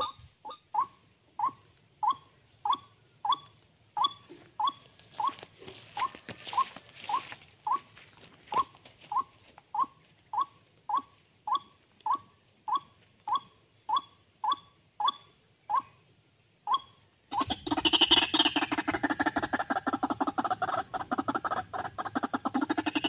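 White-breasted waterhen calls: a single short, downward-dipping note repeated steadily, a little under two a second. About seventeen seconds in it gives way to a louder, rapid, harsh run of calls.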